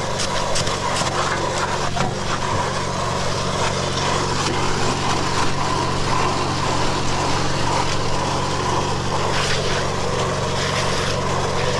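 Portable concrete mixer running steadily with a load of concrete churning in its drum, a constant motor hum under a rough rattling noise, with a few knocks in the first second.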